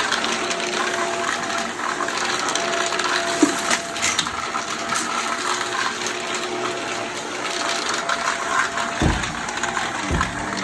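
Vacuum cleaner running steadily, a whooshing rush of air with a faint motor hum. Two low thumps come about nine and ten seconds in.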